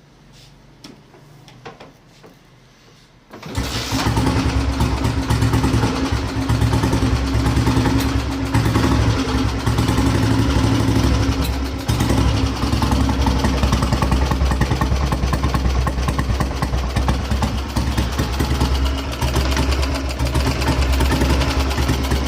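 Royal Enfield Bullet Machismo's single-cylinder AVL engine starting about three and a half seconds in, after a few faint clicks, then idling steadily.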